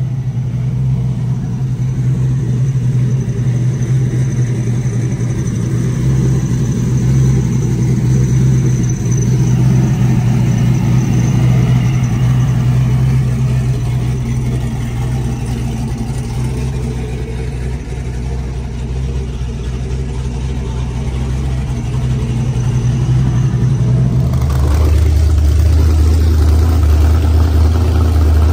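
Car engine idling loudly with a steady low rumble; about 24 seconds in, the note drops lower and gets louder.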